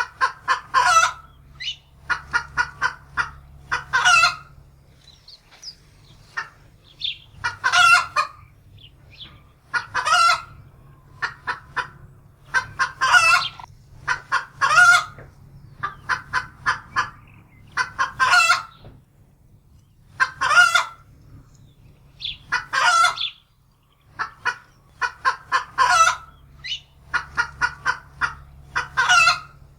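Domestic hen cackling in alarm, frightened by a wildcat: runs of quick short clucks that end in a loud drawn-out squawk, repeated every two to three seconds.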